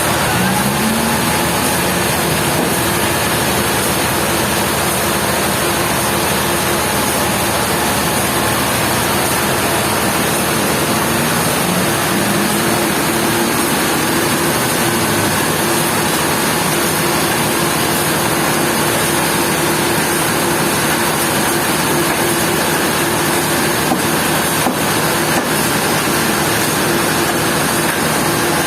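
Sawmill machinery running with a loud, steady mechanical din and hum; an engine note rises briefly twice.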